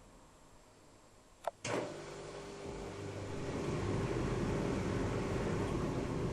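Privileg Sensation 9415 washing machine: it runs down nearly quiet, gives two sharp clicks about one and a half seconds in, then its motor starts again with a steady hum and grows louder over the next couple of seconds.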